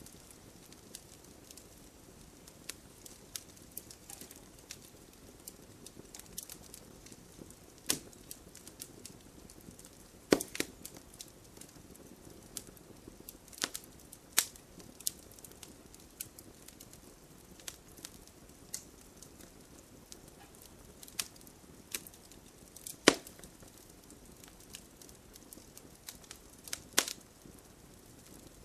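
Wood fire burning in a fireplace: a soft steady hiss with irregular crackles and sharp pops, several louder snaps scattered through.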